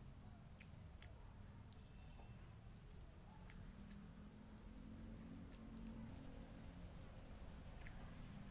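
Faint, steady high-pitched chirring of crickets, with a low hum underneath and a few soft, scattered clicks of eating.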